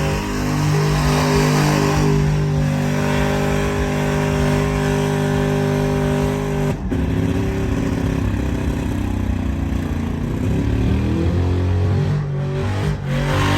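Truck engines revving and holding at high revs, with sudden changes in pitch about seven seconds in and again near the end.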